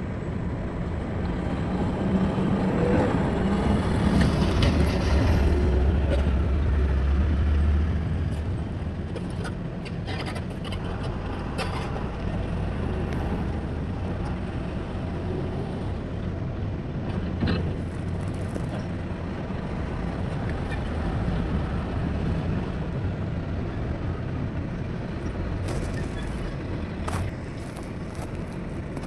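Heavy diesel engines of an excavator and dump trucks running, with a steady low rumble that swells louder for several seconds near the start, and a few short knocks or clanks later on.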